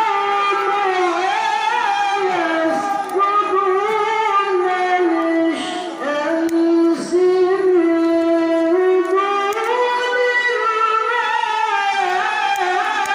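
Qari's melodic Qur'an recitation (tilawah) in a high register: a single voice holding long, ornamented notes that slide up and down, with two short hissing consonants about six and seven seconds in.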